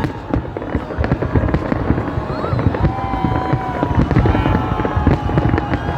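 New Year fireworks going off in a continuous barrage of bangs and crackles, with several long held tones sounding over them.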